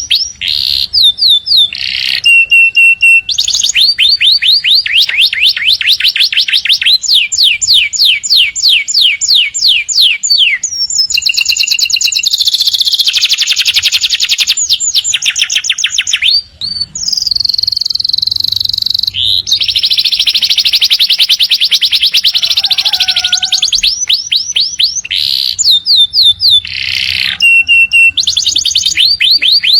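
Domestic canary singing a long, continuous song of rapid repeated-note rolls, quick downward sweeps and buzzy trills, pausing only briefly about halfway through.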